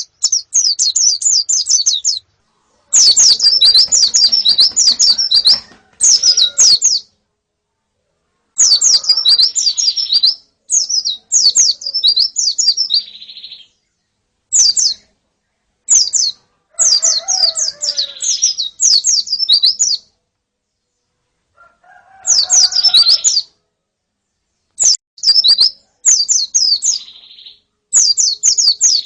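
Female and flock white-eyes (pleci) calling: loud, rapid, high twittering phrases, each lasting one to three seconds, with short silent gaps between them.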